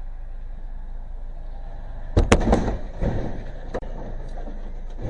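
Car crash: a steady low vehicle hum, then a cluster of loud impacts about two seconds in, followed by a few smaller knocks.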